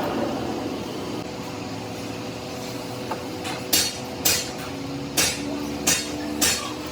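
Five sharp hammer blows on metal in the second half, about half a second to a second apart, over a steady machine hum.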